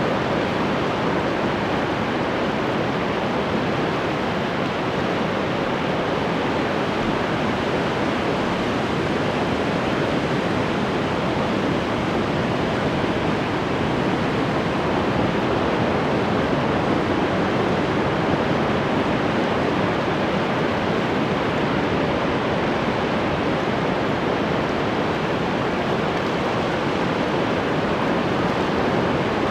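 Ocean waves washing onto the shore in a continuous, even rush of surf, with no single breaker standing out.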